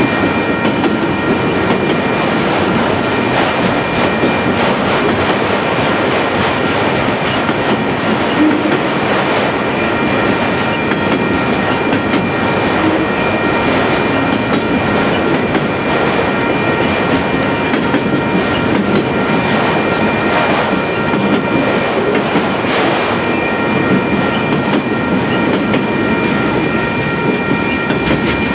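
Freight cars of a Union Pacific manifest train rolling past close by, their steel wheels clattering over the rail. The noise is loud and steady, with faint thin high tones running through it.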